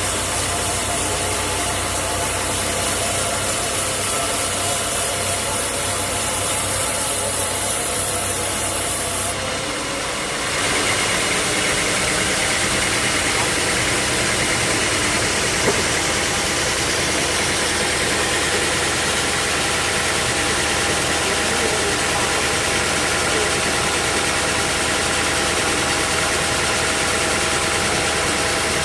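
Sawmill machinery running steadily, with a sudden change in its sound about a third of the way in.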